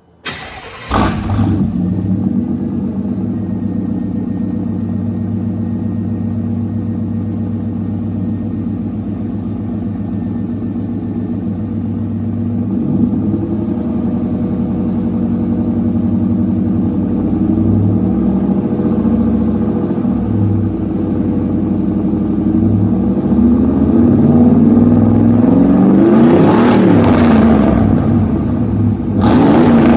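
1994 Chevy Silverado 1500 engine through a straight-pipe exhaust, cut off at the catalytic converter with no muffler, starting up within the first second and then idling steadily. Near the end it is revved twice, the second rev just before the end.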